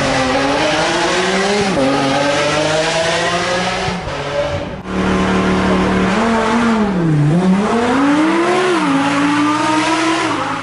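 Lamborghini supercar engines revving hard. In the first part one engine's note climbs slowly and steadily. After a break about five seconds in, a second engine holds high revs, drops sharply in pitch about seven seconds in, and climbs back up.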